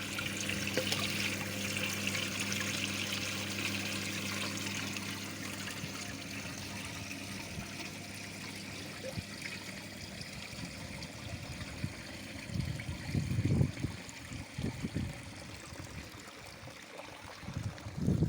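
Water from a garden pond waterfall trickling and splashing, steady throughout, with a low steady hum in the first part and a few low rumbling bumps in the last few seconds.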